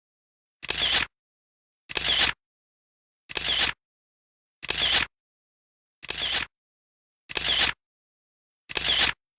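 A short added sound effect: the same brief burst, swelling up and cut off, repeated seven times about every 1.3 seconds with dead silence between.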